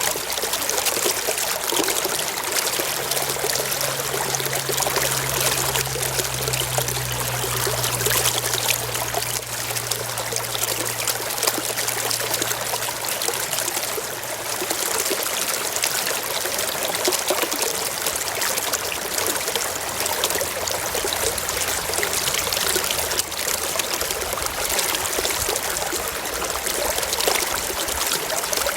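Shallow stream running and trickling over rocks, a steady, even rush of water. A faint low hum sits underneath for several seconds early on.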